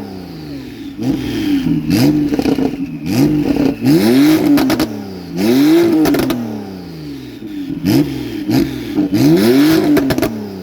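Porsche 911 flat-six engine blipped repeatedly, about six quick revs, each climbing and dropping back, with sharp crackles on the exhaust between them.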